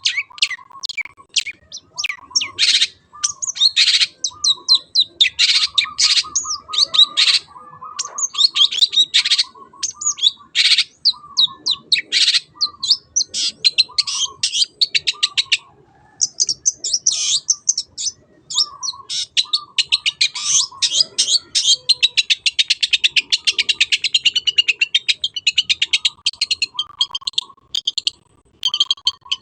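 Long-tailed shrike (cendet) singing: a fast, varied stream of high chirps and whistles over a repeated lower note, with a long rapid trill about two-thirds of the way through.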